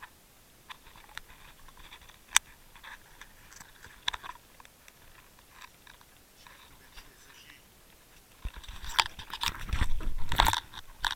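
Scattered clicks and crackles picked up by a Water Wolf underwater fishing camera. About eight and a half seconds in they turn into a dense, louder run of irregular knocks and rumbling.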